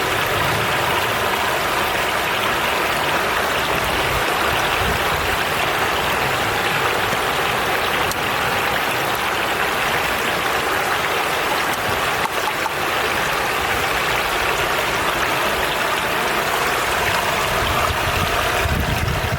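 Mapocho River water rushing in a steady, even hiss.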